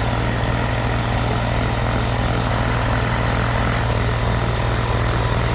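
An engine running steadily at a constant speed, a continuous low hum with an even hiss above it.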